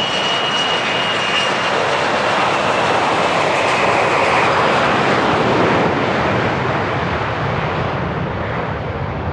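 Business jet's turbofan engines passing close by: a loud roar that builds to a peak about five seconds in, then slowly fades. A high whine is heard in the first second or so, then dies away.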